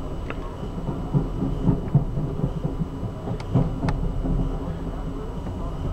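Amtrak Auto Train passenger car rolling along the track, heard from inside the car: a steady low rumble with a run of irregular clunks and knocks from the wheels and car body, the loudest between about one and four seconds in.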